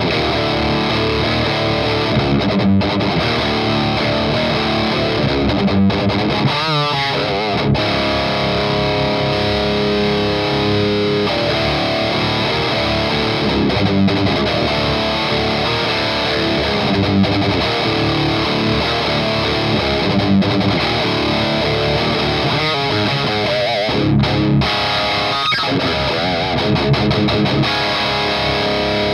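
Electric guitar played with heavy overdrive distortion through a Noise Pollution Skull Driver V2 Evolution pedal into an EVH 5150 Iconic amp: continuous distorted riffing and chords.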